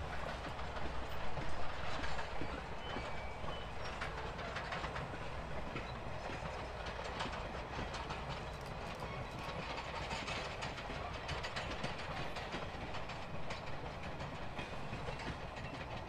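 Passenger coaches of a steam excursion train rolling past, their wheels clicking steadily over the rail joints.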